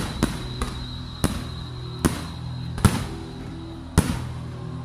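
Aerial fireworks shells bursting overhead: a string of sharp bangs, about seven in under five seconds, each with a short echoing tail.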